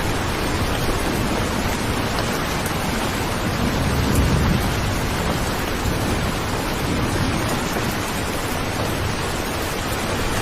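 Steady, heavy rainfall hissing without a break, with a low rumble swelling briefly about four seconds in.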